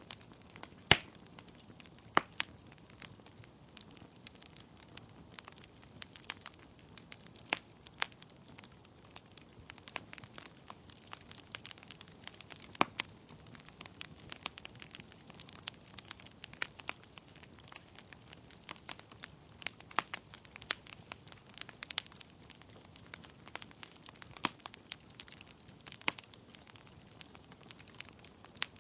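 Wood fire crackling in a fireplace: irregular sharp pops and snaps from the burning logs, a few much louder than the rest, over a faint steady hiss.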